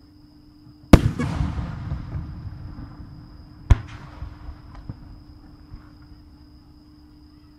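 Aerial firework shells bursting. A loud sharp boom about a second in rolls and echoes away over a couple of seconds, and a second, shorter bang comes near four seconds.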